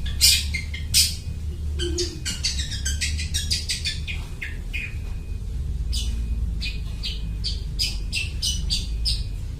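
Long-tailed shrike (cendet) singing actively, mimicking other birds: rapid runs of short, sharp, high chirps and harsh notes, with a short lull about halfway through. A steady low rumble runs underneath.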